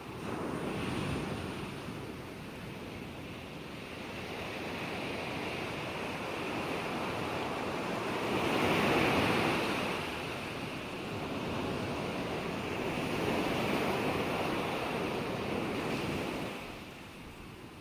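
Ocean waves breaking and washing on a shore: a continuous surf wash that swells and recedes, with the biggest wave crashing about halfway through and easing off near the end.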